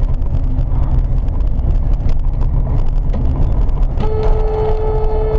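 Heavy, steady low rumble of a car on the road. About four seconds in, a car horn starts sounding one steady held note.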